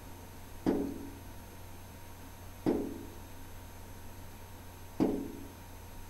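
A bird striking a window pane three times, about two seconds apart; each strike is a sharp knock with a short ringing of the glass.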